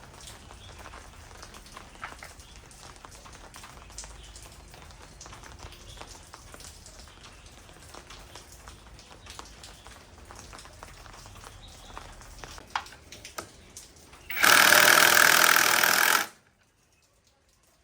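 Scattered light clicks and taps, then near the end a loud hiss lasting about two seconds that cuts off sharply.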